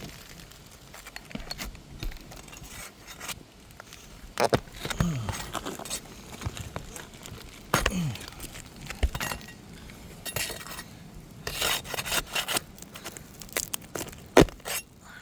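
Hand tools working asphalt roof shingles: irregular scraping and rubbing with scattered knocks and clinks, and one sharp knock near the end.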